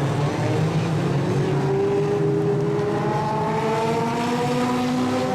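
Legends race car engine running loudly, its pitch rising steadily from about two seconds in as the car accelerates.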